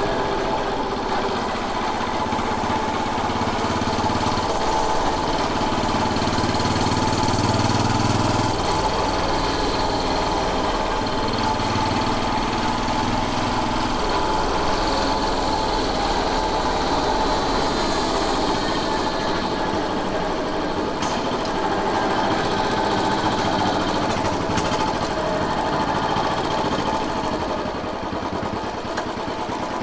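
Royal Enfield Bullet 500's air-cooled single-cylinder four-stroke engine running steadily while the bike is ridden, its note shifting a few times in the first half.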